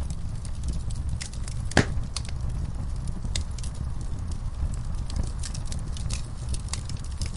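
Wood fire burning in a fireplace: logs crackling with frequent sharp pops over a steady low rumble, one louder pop near two seconds in.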